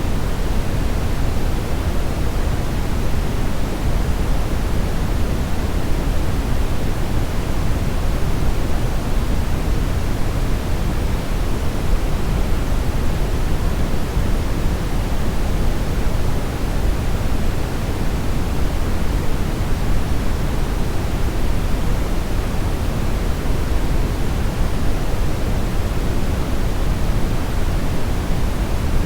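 Steady brownish noise: an even, unbroken hiss-like rumble heaviest in the low end and thinning out toward the highs, with no changes or separate events.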